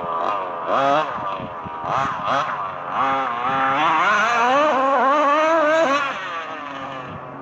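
Small two-stroke engines of 1/5-scale gas RC trucks revving up and down under throttle. The pitch climbs and gets loudest about four to six seconds in, as if run past wide open, then drops away.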